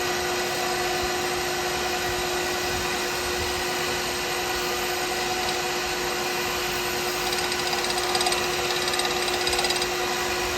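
Wood lathe running steadily, its motor giving an even whine.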